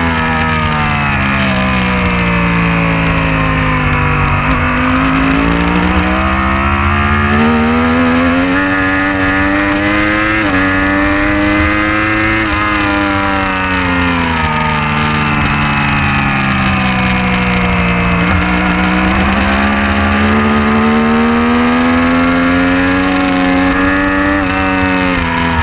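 Superbike racing motorcycle's engine at speed, its pitch falling, then climbing for several seconds to a peak about twelve seconds in, falling again, and climbing once more before dropping near the end, as it accelerates and slows through the corners. A steady rushing noise runs underneath.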